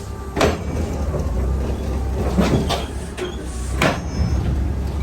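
Pallets being loaded into a box truck: a steady low engine rumble with several sharp clanks and bangs, the loudest about half a second in and near four seconds.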